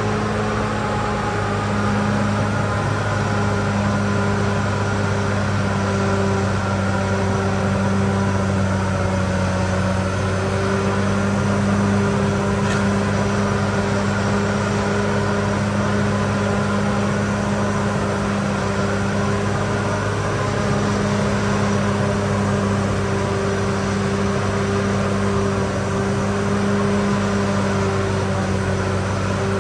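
Diesel engine of a CAT D6R XL bulldozer running steadily at working speed, its pitch shifting slightly as the load changes.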